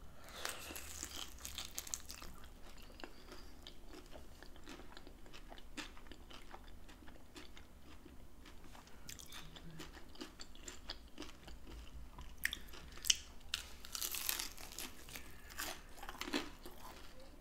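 A bite into a taco empanada made with a pizza-dough crust, then close-up chewing with crunching and small mouth clicks. A second, louder spell of crunching comes about twelve seconds in.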